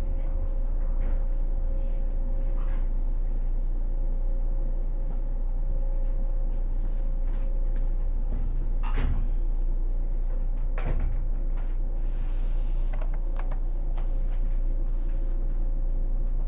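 107-series electric multiple unit standing at a station, its onboard equipment giving a steady hum with a constant tone. Two sharp knocks come about 9 and 11 seconds in.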